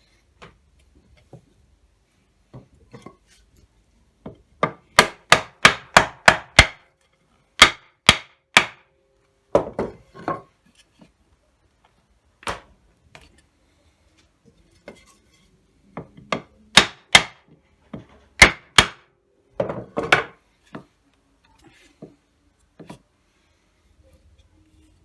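Sharp strikes of a hand tool on wood: a quick run of about seven taps around five seconds in, then shorter groups of two or three taps, with pauses between.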